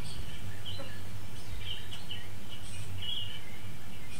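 Small birds chirping in short, irregular calls over a steady low rumble of outdoor ambience.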